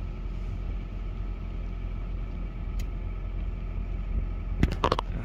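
A car engine idling, a steady low rumble, with a few sharp clicks near the end.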